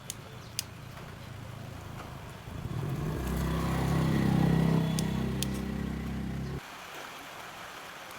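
A motor vehicle engine running: it comes up about two and a half seconds in, holds steady for about three seconds, then cuts off suddenly. Two sharp clicks sound just before it.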